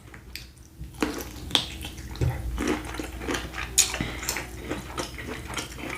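Close-up wet squelching and a run of small clicks from sauce-covered seafood-boil prawns being handled and peeled.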